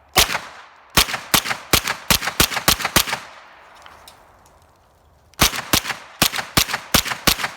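Kel-Tec 9mm carbine fed from a Glock 19 magazine, fired semi-automatically: one shot near the start, then two rapid strings of shots, about four or five a second, each about two seconds long with a pause of about two seconds between them.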